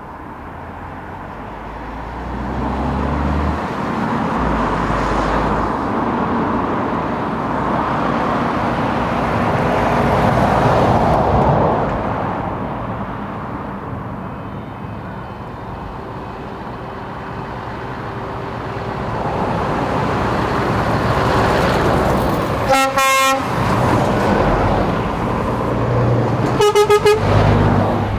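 Heavy truck engines running as trucks drive past, the noise swelling and easing. Near the end, two short horn blasts sound about four seconds apart.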